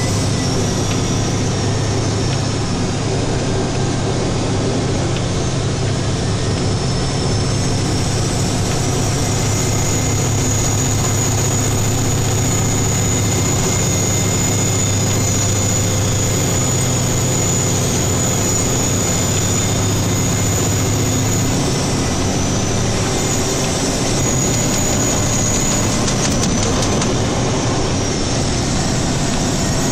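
Plow truck's engine and road noise heard from inside the cab, a loud steady drone with a thin high whine over part of it; the engine note shifts about two-thirds of the way through.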